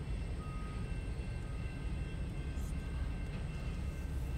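Freight train of autorack cars rolling across a road crossing, a steady low rumble heard from inside a car.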